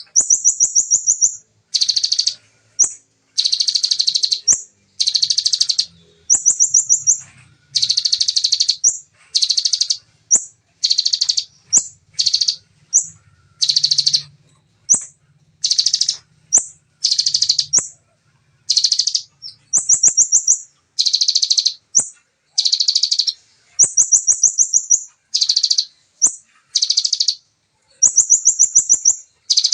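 Bar-winged prinia (ciblek) singing in rapid, tightly packed trilled bursts, each under a second, repeated again and again with short gaps. Some phrases are thinner, higher trills.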